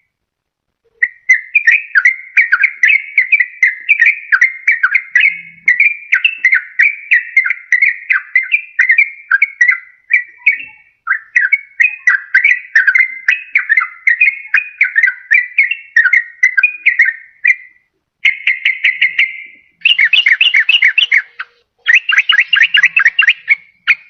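Yellow-vented bulbul (trucukan) singing a fast, bubbly chattering song of rapid notes. A long unbroken run is followed by three shorter bursts near the end. This is the kind of song used as a lure call for wild bulbuls or to prompt a caged bulbul to sing.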